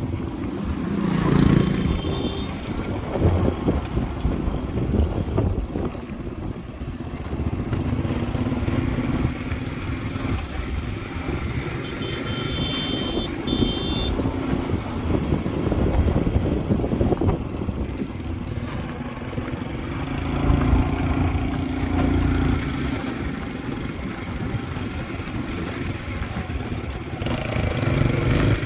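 Motorbike engine running while riding, its pitch rising and falling with speed. A few short high beeps come about halfway through.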